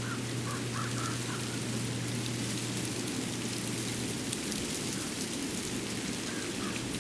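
Winter forest ambience after fresh snowfall: a steady rushing hiss with a low hum underneath and faint scattered ticks, with no single event standing out.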